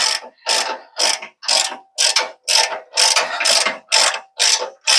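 Hand ratchet wrench cranked in steady back-and-forth strokes, about two a second, driving a tight bolt through a snug-fitting hole.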